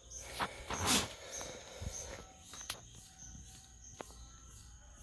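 Insects chirping with a high, pulsing trill that becomes steadier partway through. There are scattered sharp clicks and a short louder rustle about a second in.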